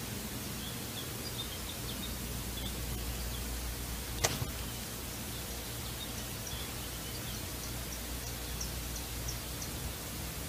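Short, high bird chirps scattered over a steady hiss, the soundtrack of a woodland squirrel video played through laptop speakers. A single sharp click about four seconds in.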